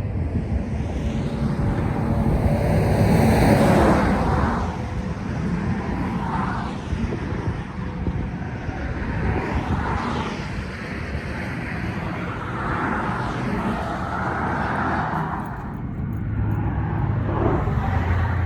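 Outdoor traffic noise: vehicles passing one after another, each rising and fading, the loudest pass about three to four seconds in.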